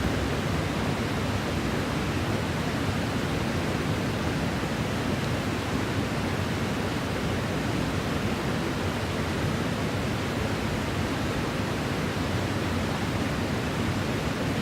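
Steady rushing of flowing water, an even noise with no breaks or gusts.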